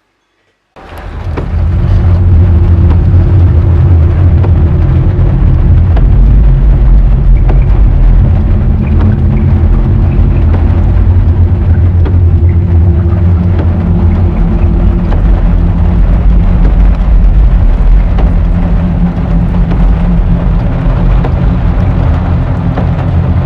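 Rain drumming on a car's roof, heard from inside the car as a loud, steady low rumble that starts about a second in.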